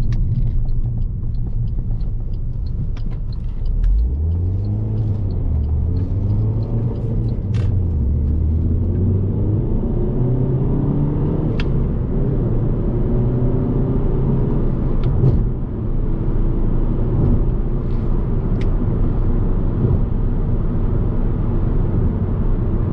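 Alfa Romeo Giulietta 1.75 TBi turbocharged four-cylinder petrol engine heard from inside the cabin, over steady road rumble. About four seconds in it pulls away and rises in pitch, then drops and climbs again twice as the manual gearbox is shifted up. A light ticking sounds during the first few seconds.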